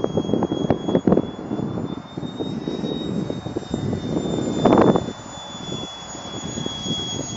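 Parkzone Habu's electric ducted fan whining steadily at a high pitch, rising a little in the middle and easing back. Wind buffets the microphone in gusts, loudest about five seconds in.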